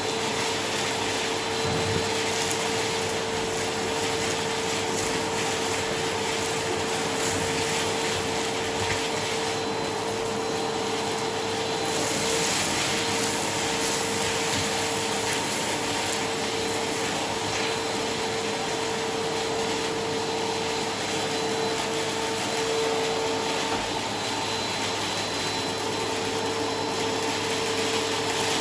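Vacuum cleaner running continuously with a steady motor whine. Its rushing noise briefly turns brighter and hissier about ten seconds in.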